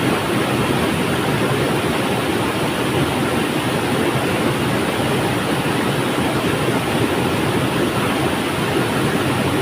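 River water flowing, a steady unbroken rushing with no changes.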